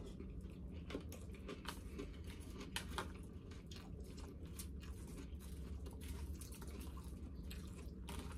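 A person chewing a mouthful of food close to the microphone, with many small irregular clicks, over a low steady hum.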